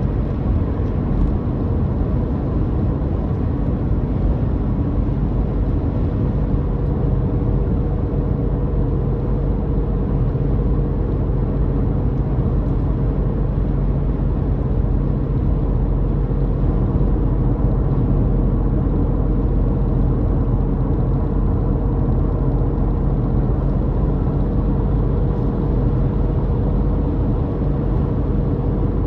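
Car being driven, its engine droning steadily at a constant pitch with a steady rush of driving noise.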